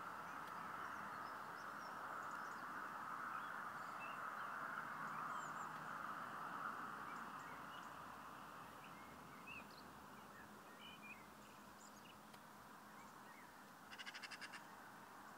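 Faint steady hiss with scattered short bird chirps, and a quick chattering call of about ten rapid notes near the end.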